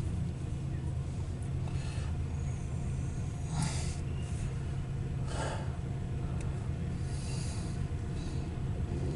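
Steady low engine rumble, with short breathy noises about three and a half seconds in, at five and a half seconds, and near seven seconds.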